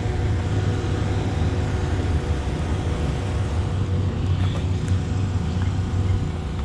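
An engine running steadily at idle: an even low rumble with a faint steady hum above it.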